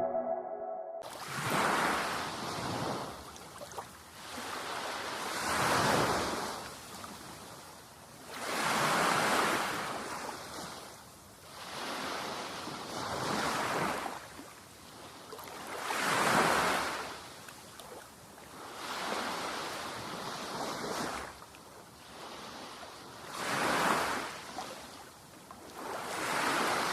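Waves breaking and washing up on a sandy beach, swelling and receding in a slow rhythm about every three to four seconds.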